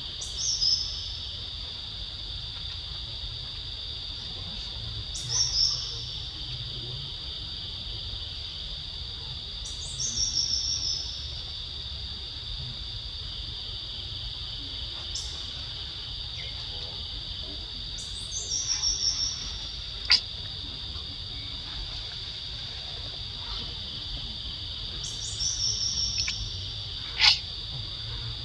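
Steady high-pitched insect chorus, with a bird repeating a short call that falls in pitch, roughly every five seconds. Two sharp clicks come near the end.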